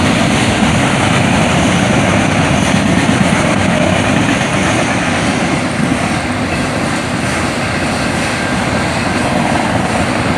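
Freight train rolling past, a steady loud rumble of cars on the rails.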